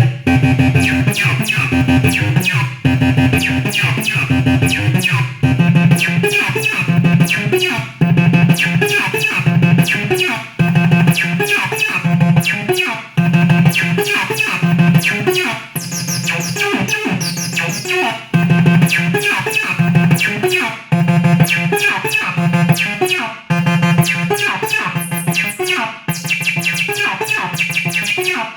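Behringer TD-3 analogue bass synthesizer playing a sequenced acid bassline, a pattern of notes that loops about every two and a half seconds.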